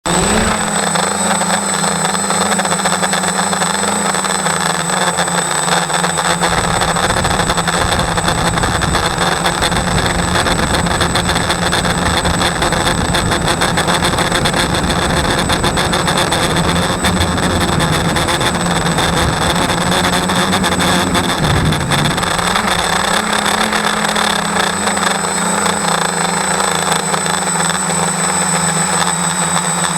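Size-550 electric motor spinning a propeller with a broken blade, running as a steady hum with a high whine. From about six seconds in until about twenty-two seconds a rough low rumble joins it.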